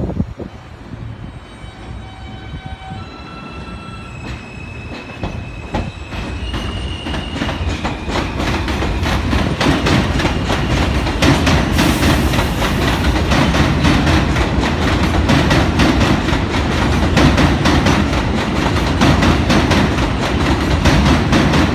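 A New York City subway train on the elevated steel structure comes closer and runs past at close range. A few short high-pitched squeals come early on. The rumble then builds up, with wheels clattering over the rail joints in a rapid, even rhythm, and stays loud from about ten seconds in.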